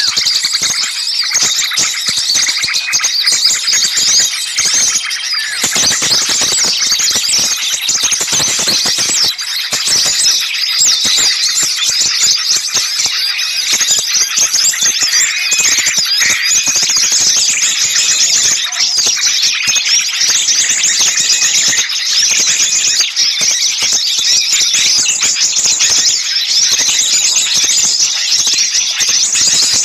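Many small songbirds chirping and calling over each other in a busy, noisy high-pitched chorus without a break: a bird-trapper's lure recording of agitated small birds.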